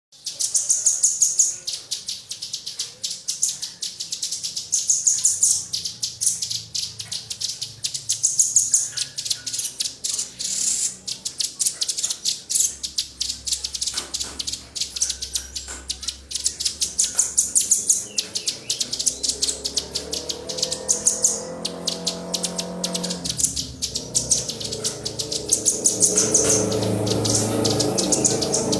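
Small songbirds chirping and trilling in quick high-pitched runs of notes, from a mixed recording of velvet-fronted nuthatch, prinia, white-rumped shama and woodpecker calls used to train caged songbirds. A lower sound made of several steady tones joins about two-thirds of the way through.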